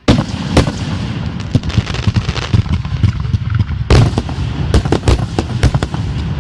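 Fireworks going off: a sudden loud bang, then a rapid run of crackling and popping with a low rumble underneath, and a few louder bangs about four to five and a half seconds in.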